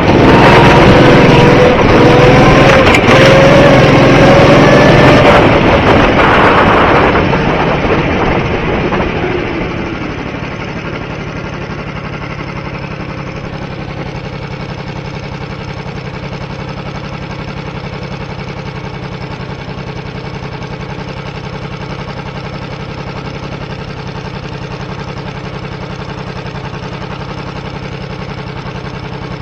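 Go-kart engines running, loud with a wavering pitch for the first several seconds, then fading over a few seconds to a steady, lower drone.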